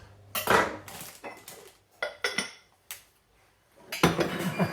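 Kitchen utensils and crockery knocking and clinking as butter is added to a pan: a few short, separate knocks, then a louder clatter near the end.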